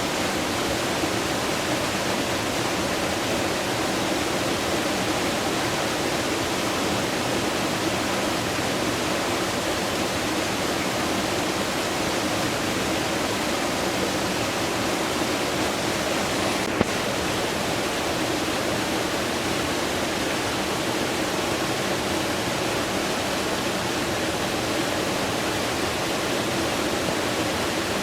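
Fast-flowing water rushing steadily, the even roar of a mountain stream. A single brief click comes a little past halfway.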